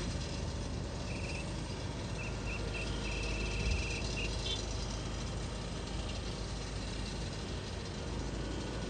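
An insect chirping in short, rapid pulsed trills, a few brief bursts and then one longer trill, from about a second in to about four seconds in, over a steady low rumble of outdoor noise.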